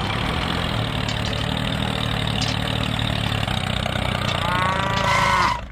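An engine running steadily at idle, with a dense low rumble. Near the end a short pitched sound bends up and then down over it.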